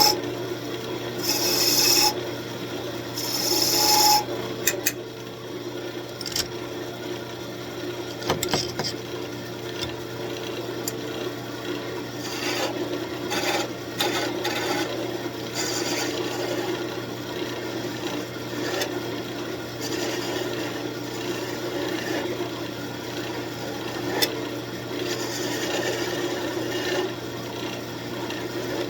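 Wood lathe running with sandpaper held against the spinning walnut workpiece: a steady rubbing hiss over the motor's hum, with three short, louder rasps in the first few seconds.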